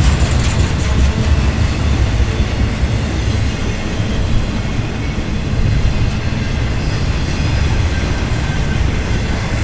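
BNSF intermodal freight train rolling past: a steady, loud, heavy rumble of wheels on rail. A faint high-pitched hiss joins about seven seconds in.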